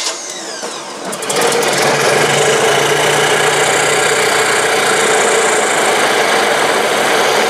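Ford Model T four-cylinder engine on a dynamometer stand being started cold on the choke: it turns over for about a second, catches, and then runs steadily.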